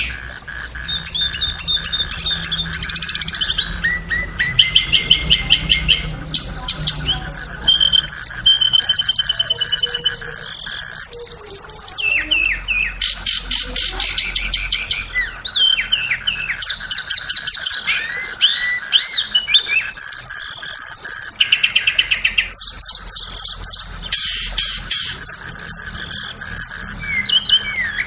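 Blue flycatcher (tledekan) song: fast trilled and warbling phrases, high and loud, following one another with short pauses, over a faint steady drone.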